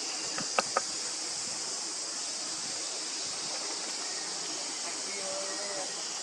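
Steady high-pitched insect chorus of forest cicadas or crickets, with two sharp clicks close together near the start.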